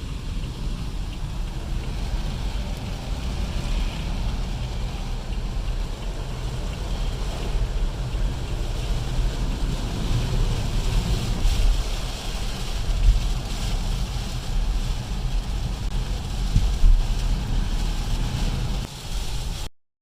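Wind buffeting the microphone outdoors, a steady low rumble with some faint hiss above it, cutting off suddenly near the end.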